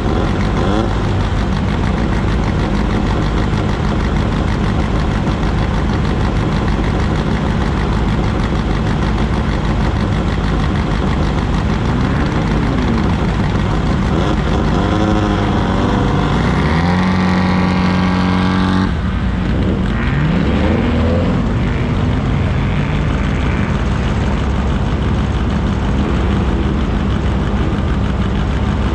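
Race vehicle's engine running, its pitch rising and falling a few times past the middle, holding high for a couple of seconds, then dropping off suddenly about two-thirds of the way through.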